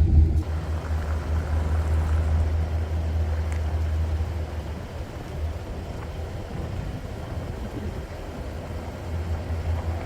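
Chevy van driving, with a steady low road rumble.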